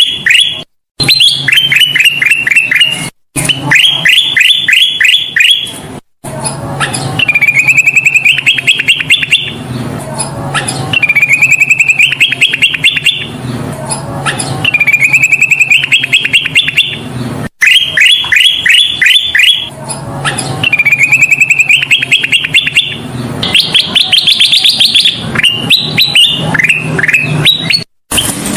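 Kutilang emas bulbul singing in full voice: repeated phrases of rapid, sharp chirping notes, many phrases climbing in pitch, broken by several abrupt cuts where the recording is looped.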